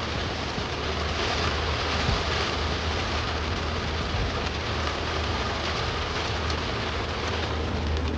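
Rain on a moving car, mixed with steady low road and engine noise.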